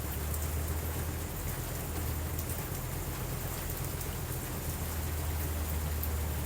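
Steady rain: a continuous even hiss with a steady low rumble beneath it and scattered faint ticks of drops.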